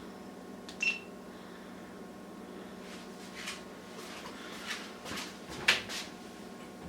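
Scattered kitchen clicks and knocks over a steady low hum, with a short bright clink about a second in and the loudest knock near six seconds.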